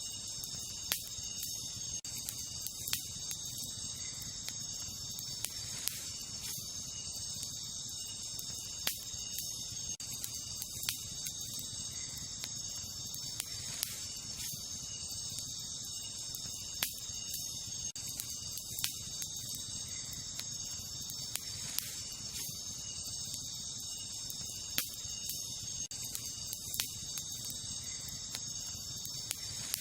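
Wood campfire crackling, with sharp pops every second or two, over a steady high chorus of night insects.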